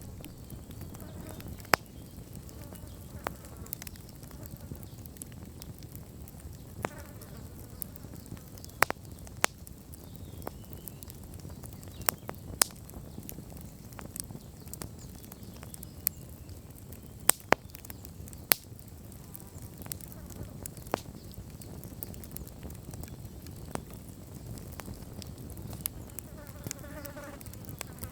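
Wood bonfire burning down: irregular sharp crackles and pops over a low steady rumble of the flames, with a few faint wavering buzzes, the clearest near the end.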